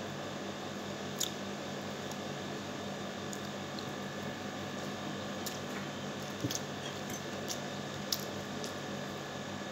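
Close-up eating sounds: soft wet chewing of rice and meat eaten by hand, with a few small clicks, over a steady background hum.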